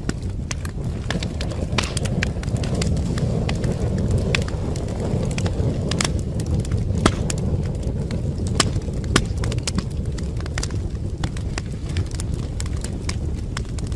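Wood fire burning in a fireplace: a steady low rumble of flames with frequent, irregular sharp crackles and pops of the burning wood.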